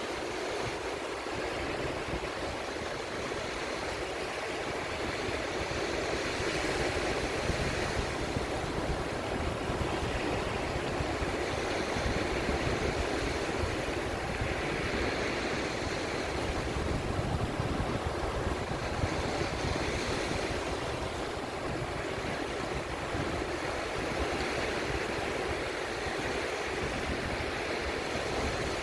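Sea waves washing in, a steady rushing hiss that swells and fades every several seconds over a low rumble.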